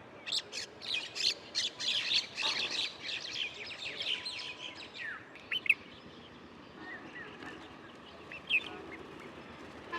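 Small birds chirping: a dense chorus of quick, high chirps for the first half, thinning to a few scattered calls later on.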